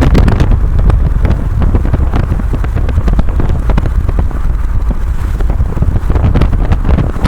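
Loud, steady rumble of a car on the move, with wind buffeting the microphone.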